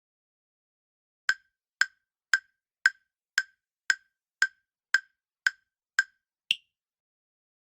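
Countdown timer sound effect: ten short, even ticks about two a second, then a higher-pitched final tick that ends the count.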